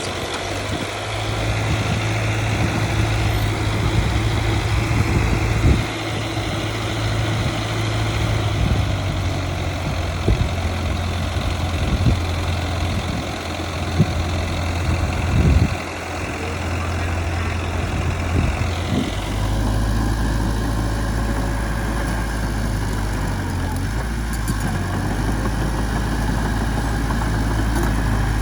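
Heavy machine's diesel engine running steadily at low revs, with a few scattered knocks; the engine note changes abruptly about two-thirds of the way through.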